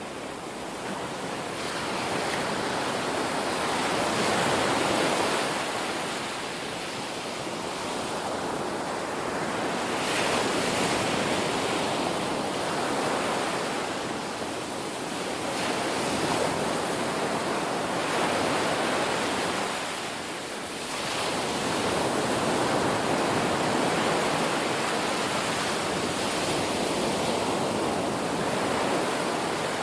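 Ocean surf: waves breaking and washing in as a continuous rush that swells and eases every five to eight seconds.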